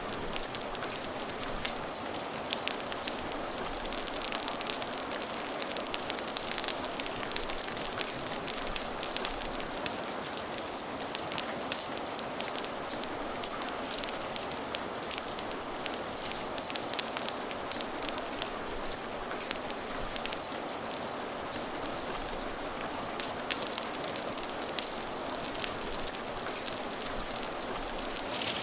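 Steady rain hissing, mixed with a crackling fire that gives many small, frequent pops and clicks.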